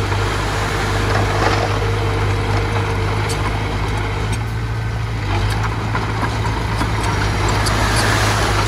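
Engine of a small earthmoving machine running steadily under work, with occasional short knocks and clicks over the hum.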